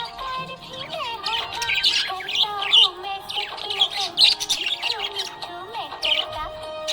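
Budgerigars chirping and warbling in a quick, continuous chatter of short high chirps, with music playing underneath.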